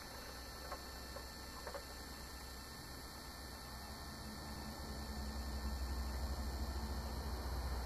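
Electric hydraulic pump of an RC dump truck's Wedico hydraulic system humming steadily, growing louder over the second half, with a couple of faint clicks early on.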